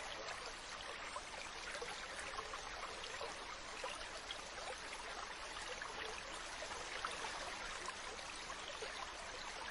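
Mountain stream running steadily over rocks, a constant rush of water with many small splashes and gurgles.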